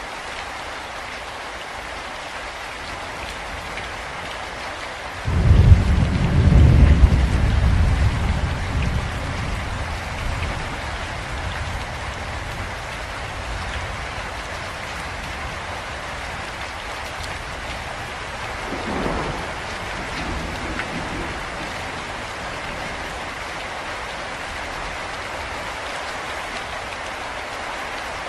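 Steady rain falling, with a sudden loud clap of thunder about five seconds in that rumbles and fades over several seconds, and a fainter roll of thunder later on.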